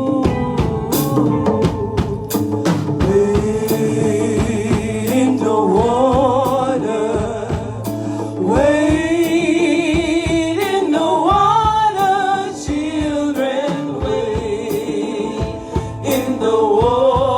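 Gospel music: a singer's long, wavering lines with vibrato over a drum kit, building in strength about halfway through.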